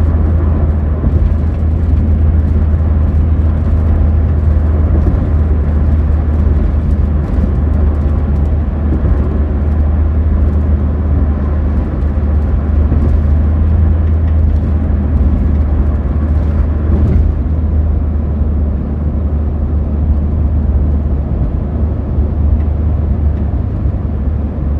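Steady road and wind noise inside a moving car's cabin in gusty wind: a loud, constant low rumble.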